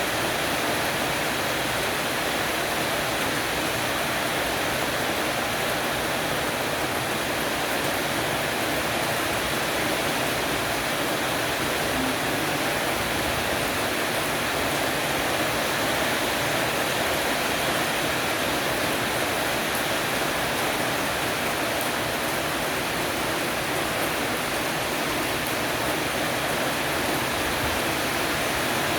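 Heavy rain shower falling on a porch roof: a steady, even hiss of rain with no breaks or thunder.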